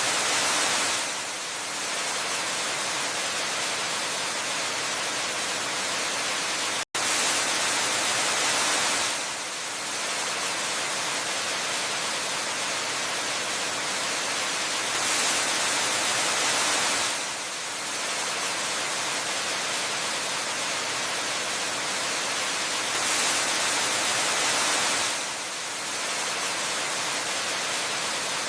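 Waterfall running: a steady rushing hiss that swells a little louder for a couple of seconds about every eight seconds. The sound drops out for an instant about seven seconds in.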